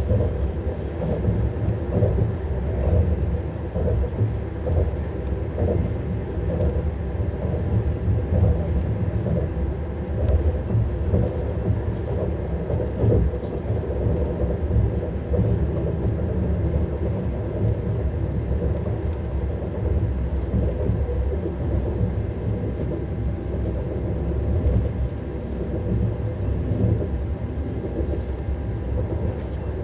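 Lastochka electric multiple unit running on the rails: a steady low rumble of wheels on track with faint scattered clicks and a faint steady hum above it.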